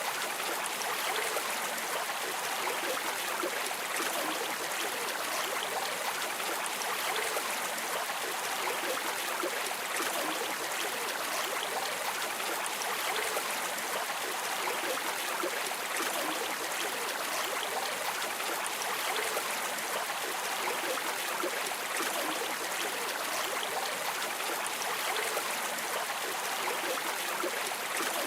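Water of a stream flowing steadily: a continuous, even rushing and trickling with no separate splashes or changes.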